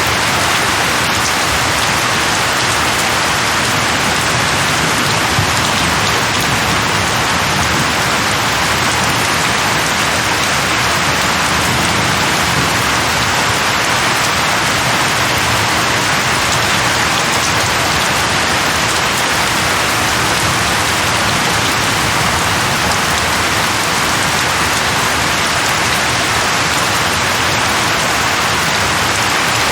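Steady, even rainfall with drops hitting a surface, with no thunder or other sounds standing out.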